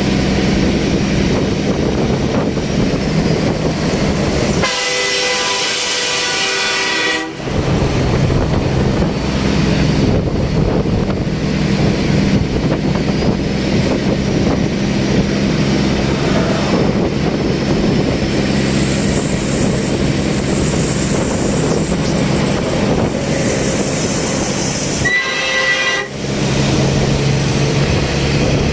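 Heavy truck running with a steady low rumble. Twice, a train-style multi-tone air horn chord sounds: once for about two and a half seconds a few seconds in, and once more briefly near the end.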